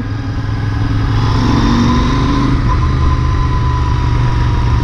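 Royal Enfield Interceptor 650's parallel-twin engine running steadily while the motorcycle rides along, with wind rushing over the microphone.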